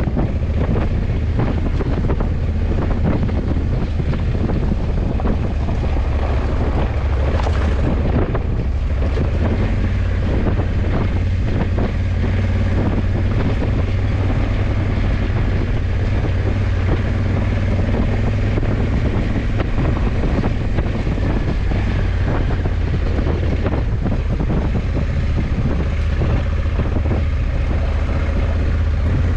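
Honda CRF1100 Africa Twin's parallel-twin engine running at a steady cruise, with strong wind noise buffeting the microphone.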